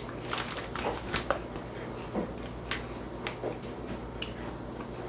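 Crunchy onion-ring snack being bitten and chewed: a few separate, irregular crunches over a steady low hum.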